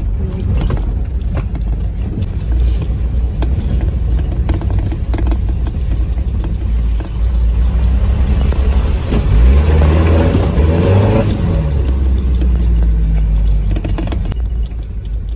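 Off-road vehicle's engine running with a steady low rumble. It revs up about nine seconds in and settles back down a few seconds later.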